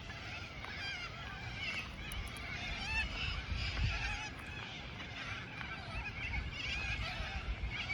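A dense chorus of many birds calling and chattering at once, with overlapping wavering calls all through.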